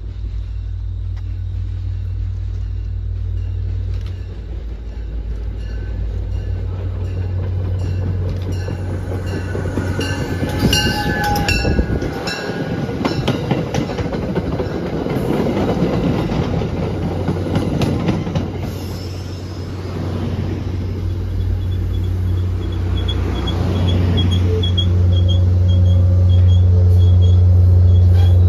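MBTA push-pull commuter train passing close by: the coaches roll past with wheel and rail noise, and the rumble grows over the last few seconds as the diesel locomotive pushing at the rear draws near.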